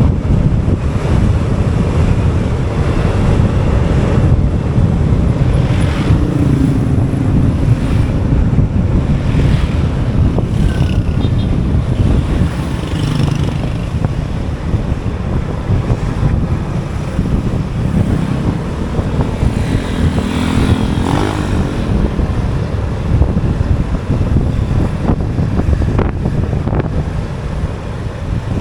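Wind buffeting the microphone of a moving motorbike, over its engine and road traffic noise, with faint engine pitch rises about six seconds in and again around twenty seconds.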